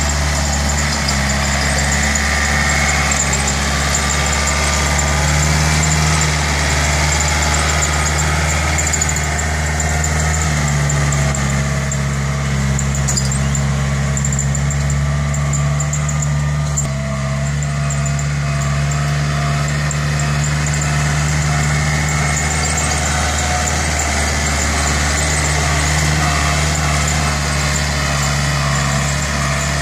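Yanmar EF494T tractor's diesel engine running steadily, its note shifting about ten seconds in.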